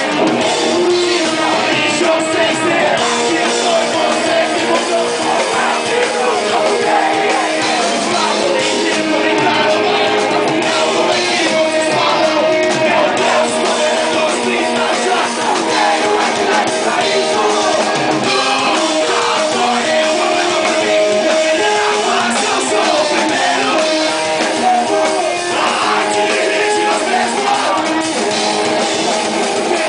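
Rock band playing live: electric guitar and drum kit in one continuous loud song, with little bass in the sound.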